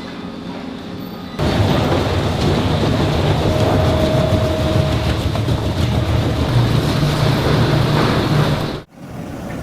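Heavy industrial shredding machine running under load, a loud grinding clatter over a deep hum; it starts suddenly after a quieter stretch and cuts off abruptly near the end.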